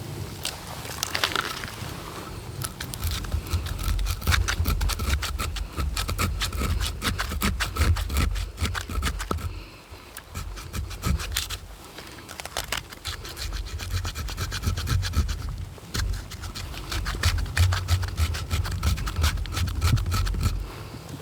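A blade working wood in quick repeated rasping strokes, in two long runs with a short pause about ten seconds in.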